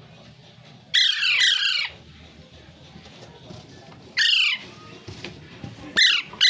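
Parrot squawking: a quick pair of loud, harsh calls, then single calls twice more, each call falling in pitch.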